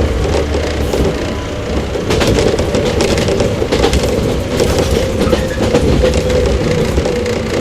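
JR 115-series electric motor car KuMoHa 115-318 running at speed, with a steady motor whine over a low rumble. In the middle stretch the wheels click rapidly over rail joints.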